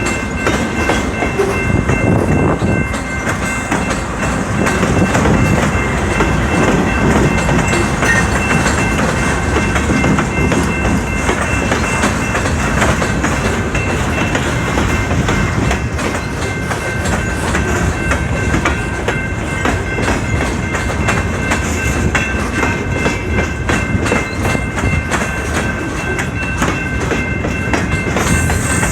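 Freight train rolling past at close range: a steady rumble of wheels with a clickety-clack over the rail joints. A few steady high tones ring over it throughout.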